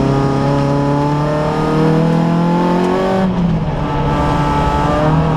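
Peugeot 106 Cup race car's engine heard from inside the stripped cabin, pulling hard with its note rising slowly. About three seconds in the note breaks and drops in pitch, then picks up again and carries on.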